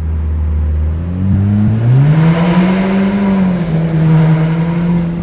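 Car engine accelerating. Its note is steady at first, climbs from about a second in, peaks, then eases slightly and holds.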